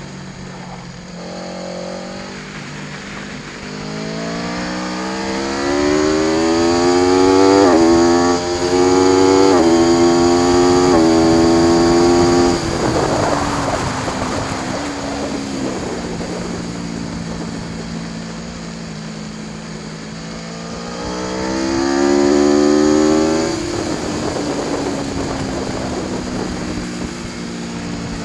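Aprilia Tuono V4 1100 Factory's V4 engine at full throttle, rising in pitch and going up through three quick gear changes, then shut off with the note falling away as the bike slows. Near the end it accelerates hard once more and the throttle closes abruptly.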